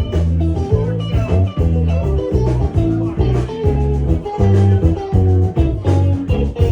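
Live rock band playing: electric guitar over a strong bass line and drums, recorded from the audience.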